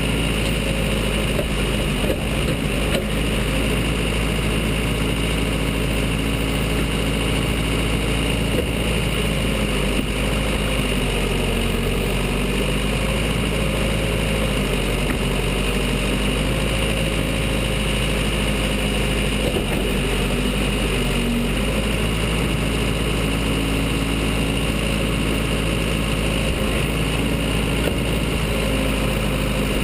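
Case 580 Super L backhoe's four-cylinder diesel engine running steadily at low revs, its pitch shifting slightly a few times as the machine works.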